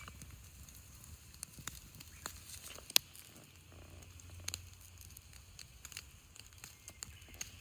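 Wood campfire crackling: scattered small pops and snaps, with one sharp crack about three seconds in.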